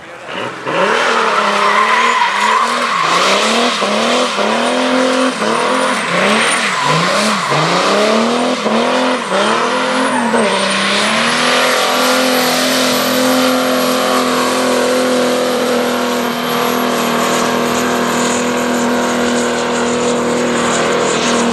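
Mercedes W123 turbo diesel's five-cylinder engine revved up and down in quick blips for about ten seconds, then held at high revs while the rear tyres spin and squeal in a sustained burnout.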